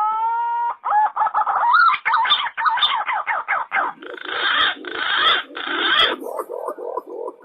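Recorded lure calls of green pigeons (punai) and imperial pigeons (pergam). A rising whistle levels off, then a run of varied whistled glides and rougher noisy notes follows. Rapid low pulsed calls come near the end.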